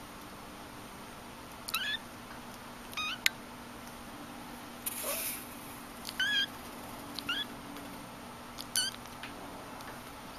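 Persian kitten mewing: five short, high-pitched, upward-sliding mews spaced a second or more apart. A sharp click comes a little after three seconds in, and a brief rustle around five seconds.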